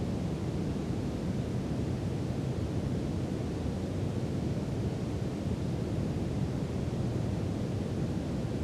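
Brown noise: a steady, even rumbling hiss with most of its energy in the low end and no changes or events.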